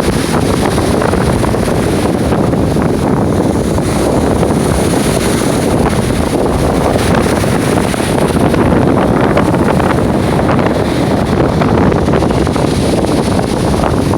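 Storm wind blowing hard across the microphone, a loud steady rumble, over the noise of heavy surf on a stormy sea.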